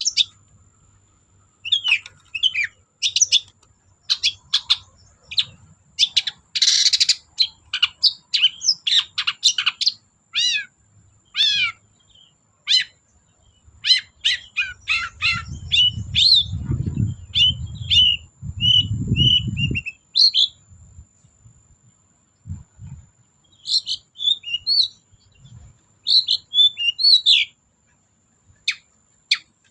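Long-tailed shrike (cendet) singing a fast, varied run of short chirps and whistled notes, with a harsh rasp about seven seconds in. A low rumble sounds under the song from about fifteen to twenty seconds in, and a faint steady high tone runs beneath it all.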